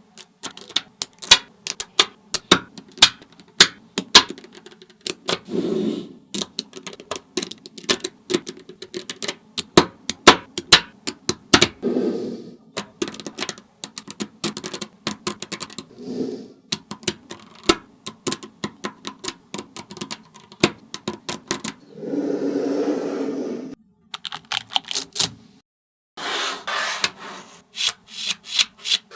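Small magnetic balls clicking and snapping together in quick, irregular taps as they are set in place one by one. There are short rattles between the clicks and one longer rattle about two-thirds of the way through.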